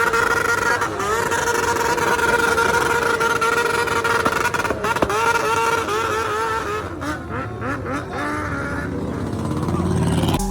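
A vehicle engine revved hard and held at high rpm, its pitch steady for several seconds, then wavering up and down about halfway through before easing off near the end.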